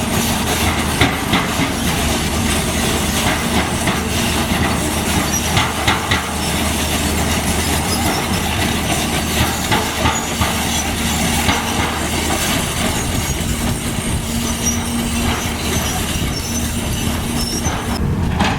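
Diesel engine of heavy construction machinery running steadily, with irregular metallic clanks, knocks and squeaks from the machine working.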